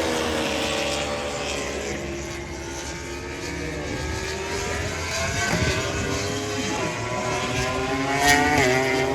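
MotoGP racing motorcycle engines on track, their note sliding down over the first few seconds and then climbing again, with a sharp crack and a quick dip in pitch near the end.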